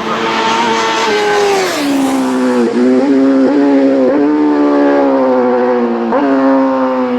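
A road-racing motorcycle's engine going past at full throttle, its note falling as it passes. A run of sharp dips and recoveries in the note follows, heard as quick gear changes.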